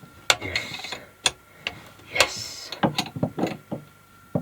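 Irregular clicks and knocks of hands working on plumbing fittings and tools, with a couple of short scraping rustles.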